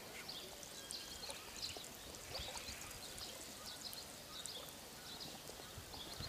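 Faint chirping of small birds: many short, high calls scattered throughout, over a soft steady outdoor hiss.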